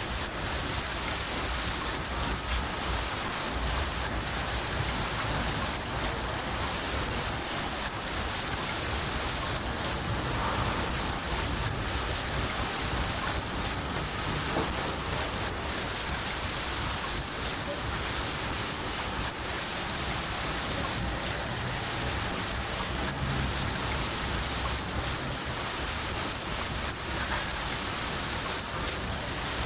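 A cricket chirping in a steady, even rhythm of high chirps, breaking off briefly about halfway through, over the continuous hiss of falling rain.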